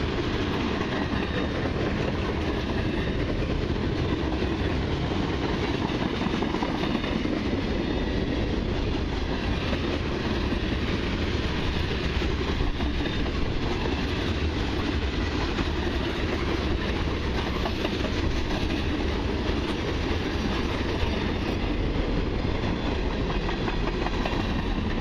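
Freight cars of a long mixed freight train (covered flatcars and covered hoppers) rolling past close by. Their steel wheels on the rail make a steady rumble with a continuous run of fine clicks.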